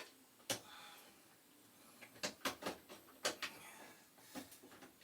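A few faint, short, sharp clicks and taps at uneven intervals, made by wire connectors being pushed onto the terminals of a boiler's spark-ignition control module and the wiring being handled.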